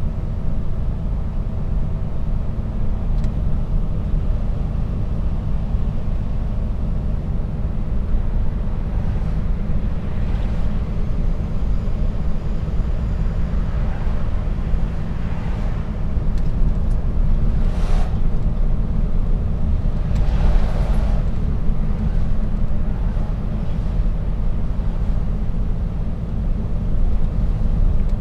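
Mercedes-Benz Actros truck driving, heard through a dashcam in the cab: a steady low engine and road rumble. A few brief faint sounds come past the middle, a sharp click and then a short hiss.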